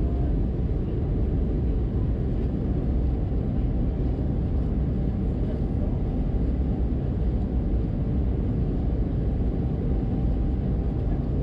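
Steady low drone of an Airbus A320-200 in flight, heard inside the passenger cabin: engine and airflow rumble with no change in pitch or level.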